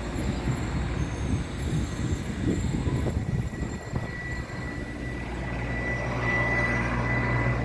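Aircraft engine running: a low rumble with a steady high whine, getting louder about six seconds in.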